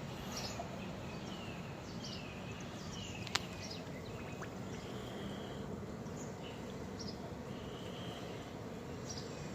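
Outdoor background noise with a bird calling in short, falling chirps about once a second, and one sharp click about three and a half seconds in.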